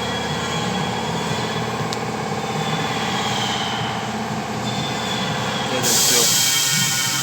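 A steady mechanical whine made of several even tones, with a loud hissing rush coming in about six seconds in.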